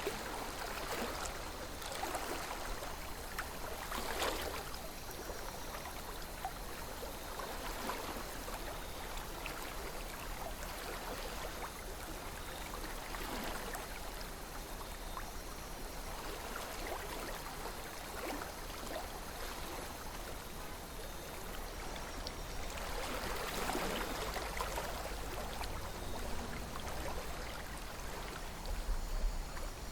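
River water flowing: a steady rush of running water with small gurgles and splashes here and there.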